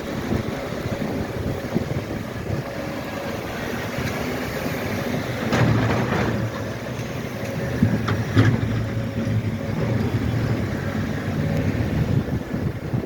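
Snowplow trucks working in tandem, their engines running with a steady low rumble, with a few sharp clanks about halfway through.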